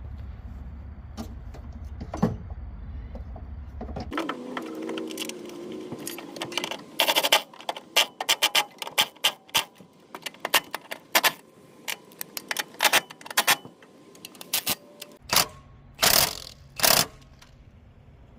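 Hand ratchet wrench clicking in quick irregular runs as a bolt is turned in, after a low hum in the first few seconds.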